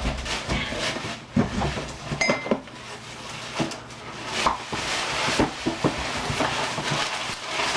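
Rustling and light knocks of items being handled and unpacked from a gift box, with a brief high squeak about two seconds in.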